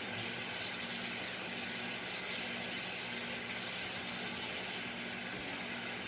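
Steady, even background hiss with a faint low hum underneath, unchanging and without distinct events.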